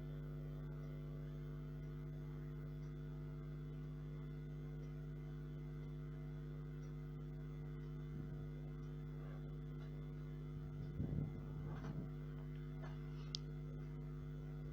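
Steady electrical mains hum, with a faint brief rustle about eleven seconds in and a small click near the end.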